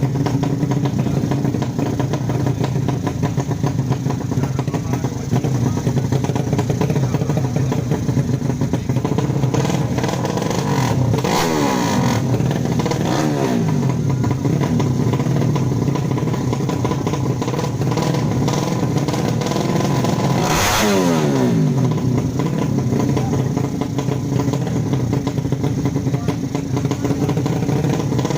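155 cc drag-racing motorcycle engines running loudly and steadily. Falling-pitch sweeps come about 11 seconds in and again about 21 seconds in, the second starting with a sharp burst.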